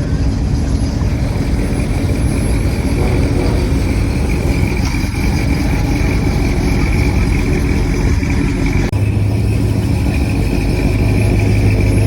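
Car engine idling steadily. About nine seconds in the sound changes abruptly to a deeper, steadier hum.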